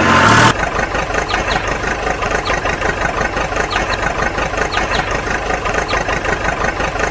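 Tractor engine idling with a steady, fast chugging pulse. A louder sound cuts off abruptly about half a second in, and faint short high chirps sound over the engine.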